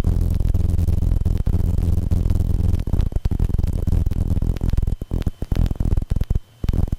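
Cessna 150/152 engine at full takeoff power, heard through the cockpit intercom feed as a steady low hum under static hiss. The sound cuts out briefly again and again, more often in the second half.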